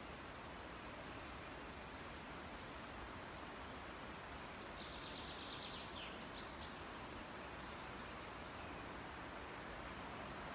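Forest ambience: a steady background hiss with a few short, high bird calls, the longest a trilled series about five seconds in.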